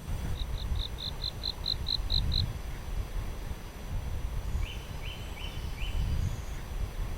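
A bird calling: a quick run of about ten short high notes, then, a couple of seconds later, four lower slurred notes, over a steady low rumble.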